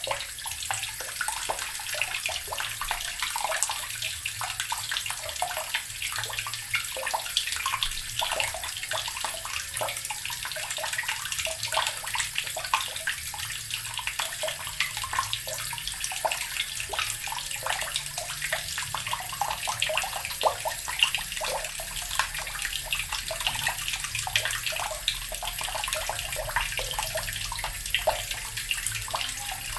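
Water running steadily from a tap and splashing into a basin, with many small irregular splashes.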